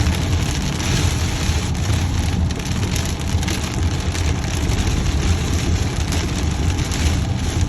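Heavy rain falling on a moving car, a steady hiss over a low road rumble.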